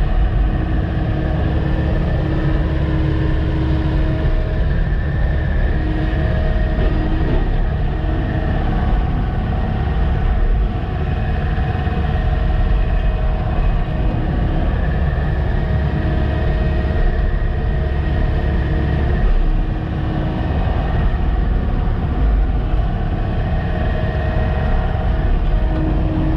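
Sany SY-95 excavator's diesel engine running steadily under working load, with hydraulic whines rising in and dropping out every few seconds as the machine moves gravel.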